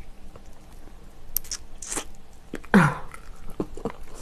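A person chewing food close to the microphone: scattered wet mouth clicks and smacks, with a brief louder sound just before three seconds in that falls in pitch.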